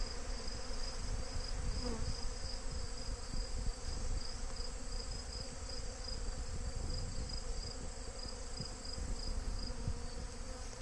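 Dense, steady buzzing of a large swarm of honey bees around a beehive: robber bees from other colonies massing and fighting to break into a weakened hive.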